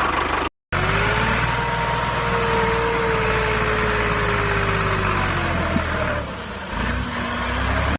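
Small electric motor of a DIY model tractor running steadily, with a whine that sinks in pitch and drops lower about six seconds in. The sound cuts out briefly just after the start.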